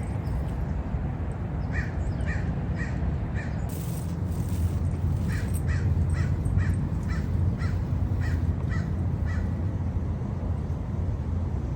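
A bird calling in two runs of short, evenly spaced notes: four quick calls about two seconds in, then about a dozen more from around five seconds, over a steady low rumble.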